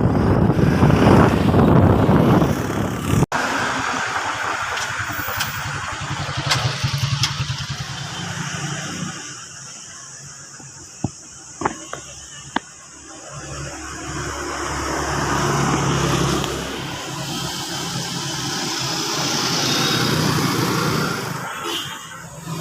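Motorbike on the move: engine running with road and wind noise. The sound breaks off abruptly about three seconds in, a few sharp clicks come near the middle, and the engine rises in level again in the later part.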